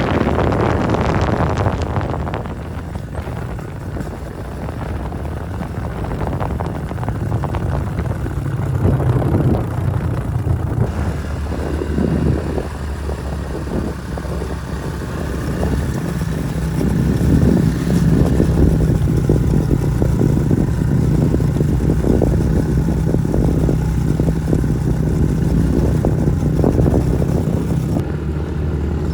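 A small vehicle's engine running steadily, picking up speed and getting louder about two-thirds of the way through, with noisy rushing in the first couple of seconds.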